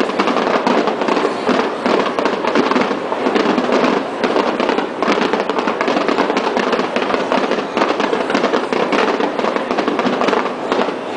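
Fireworks display: a dense, continuous barrage of overlapping bangs and crackle with no pause, the sound of many shells bursting at once.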